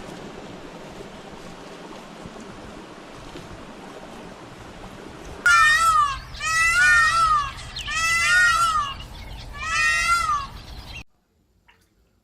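A steady rushing noise, then a kitten meowing four times in high, drawn-out calls that rise and fall in pitch, before the sound cuts off abruptly.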